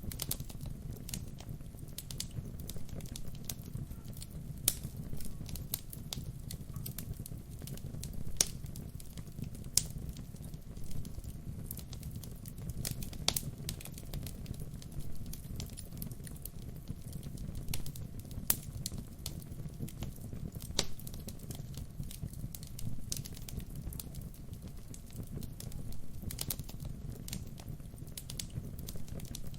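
Wood fire burning: a steady low rumble of the flames with irregular crackles and sharp pops from the burning logs, a few of them noticeably louder.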